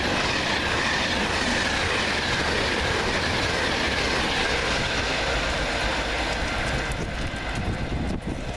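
Class 390 Pendolino electric train passing through at speed: a steady rush of wheel and rail noise with a faint high tone that slides slowly down, thinning out about seven seconds in.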